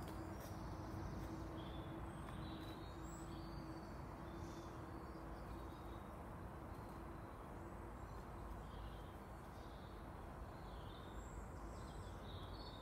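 Small birds chirping and calling here and there over a steady low background rumble, with a faint steady hum through the first half.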